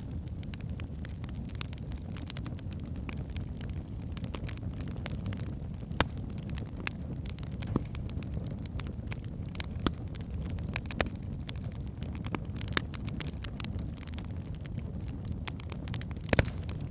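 Wood fire burning in a fireplace: a steady low rumble of flames with frequent small crackles and a few louder pops, one about six seconds in, one about ten seconds in and one near the end.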